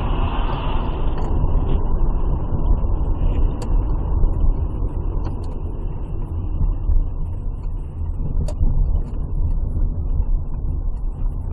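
Steady rumble of a car driving, engine and road noise heard from inside the vehicle, with a couple of faint ticks.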